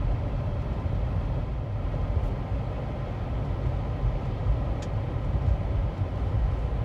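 Car cabin noise while driving on an ice-glazed, wet road: a steady low rumble of engine and tyres, with a faint click about five seconds in.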